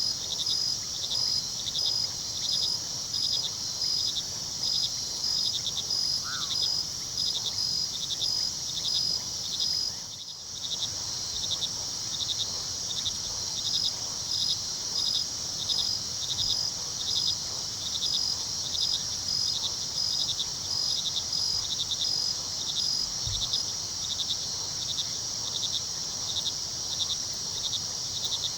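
Night chorus of crickets chirping in a steady, even rhythm over a continuous high-pitched insect drone, with the low rush of river water underneath. A single faint short bird call sounds about six seconds in, and the whole chorus dips briefly about ten seconds in.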